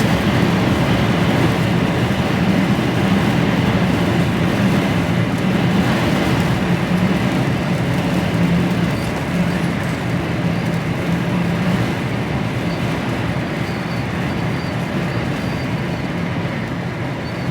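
Steady drone of a loaded HGV lorry's diesel engine and tyre and wind noise, heard from inside the cab while cruising, with a low hum that holds steady throughout.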